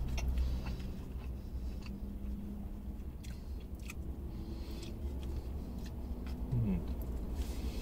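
Close-up chewing of a mouthful of breaded crispy chicken sandwich: soft wet chews and small crunchy clicks, with a couple of soft hums from the throat, over a steady low hum.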